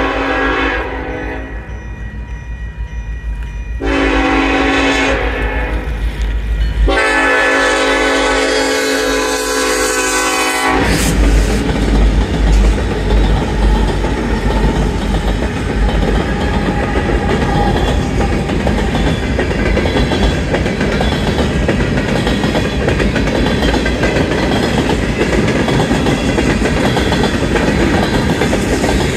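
Union Pacific freight locomotive's Nathan K5LLA horn sounding its grade-crossing blasts: one ending about a second in, then a blast from about 4 s, followed at once by a longer one held until almost 11 s. Then the lead EMD SD70AH and trailing locomotives rumble past, followed by the steady clickety-clack of the freight cars rolling over the rails.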